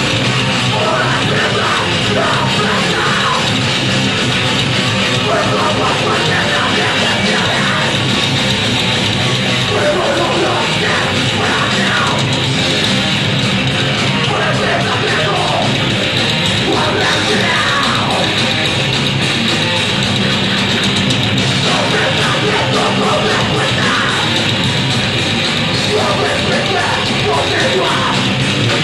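Heavy punk/metal band playing live, with distorted electric guitars, bass and drums and shouted vocals.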